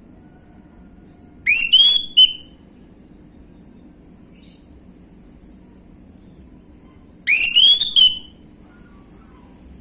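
Orange-headed thrush whistling two short phrases of rising notes, one about a second and a half in and another about six seconds later.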